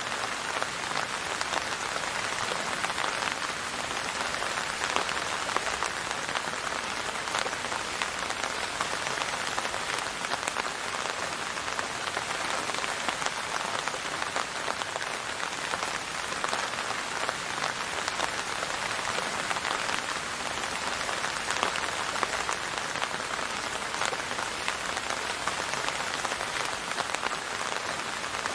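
Steady rain falling on a surface, an even patter of many drops with no thunder.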